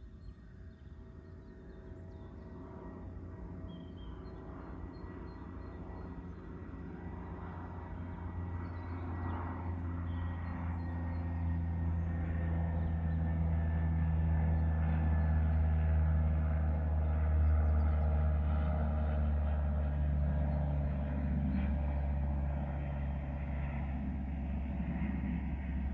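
A passing engine droning, with a deep hum and pitched tones that grow slowly louder over about fifteen seconds, then ease off a little, the pitch sinking slightly as it goes.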